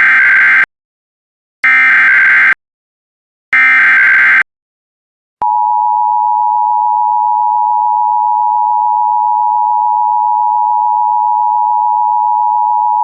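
Emergency Alert System tones: three short bursts of the SAME digital header data, then the steady two-tone EAS attention signal starting about five seconds in.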